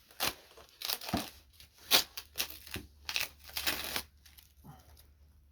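Packing material being cut and pulled off a new minibike: an irregular run of crinkling, rustling crackles, the loudest about two seconds in, thinning out after about four seconds.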